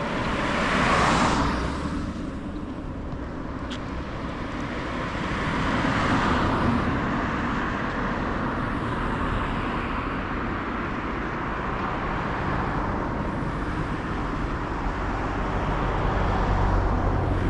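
Car road noise, tyres and engine on the road, steady with a few swells in loudness.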